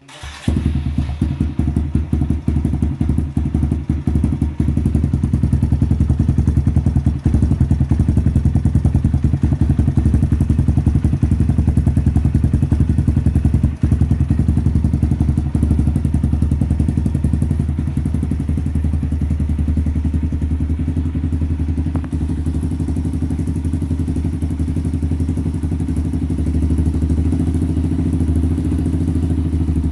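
Kawasaki KLX single-cylinder four-stroke motorcycle engine running steadily through a Nurifumi aftermarket exhaust, with rapid, even exhaust pulses.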